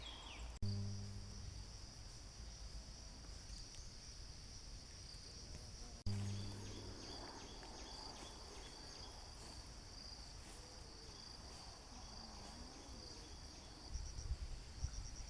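Steady high-pitched insect trilling in the background, with rapid pulsed chirps near the end. A low rumble comes in near the end.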